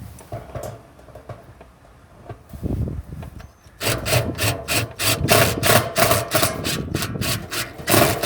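Hand saw cutting through wood: quiet handling at first, then from about four seconds in a steady run of quick back-and-forth strokes, about three a second.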